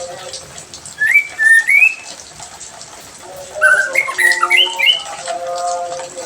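Songbird calling in short rising whistled notes about a second in, then a quicker burst of varied chirps and whistles in the middle, over a steady hiss of water spray.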